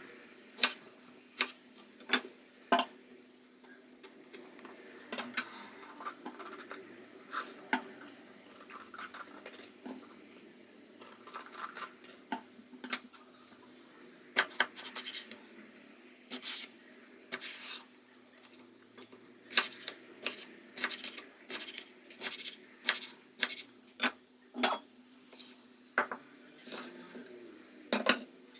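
Kitchen utensils and dishes clinking and knocking in irregular sharp taps, with short bits of scraping, over a steady low hum.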